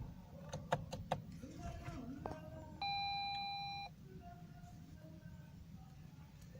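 A few sharp clicks from the car's controls, then a single electronic chime from the Lexus IS 350's dashboard, one steady tone about a second long that cuts off abruptly.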